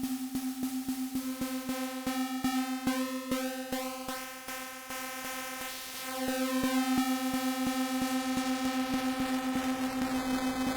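Elektron Syntakt's SY Bits digital synth engine holding one pitched note, retriggered about four times a second, its overtones growing and shifting in tone. It dips in level around the middle, comes back louder, and its upper overtones slide downward near the end.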